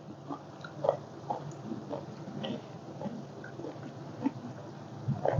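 A person chewing food close to the microphone: soft wet smacks and small mouth clicks at irregular moments.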